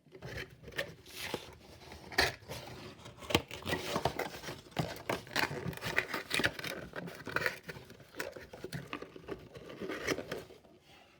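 Packaging being handled as a model airliner is taken out of its box: crinkling plastic, tearing and many small clicks and snips, stopping shortly before the end.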